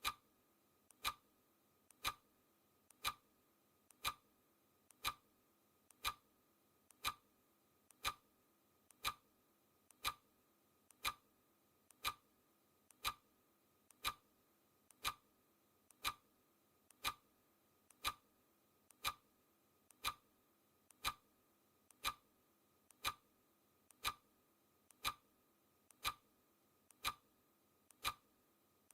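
Clock ticking, steady and even at about one tick a second.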